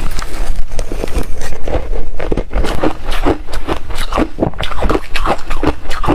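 Loud, close-miked chewing of reshaved refrigerator ice, a run of rapid, irregular crunches several times a second.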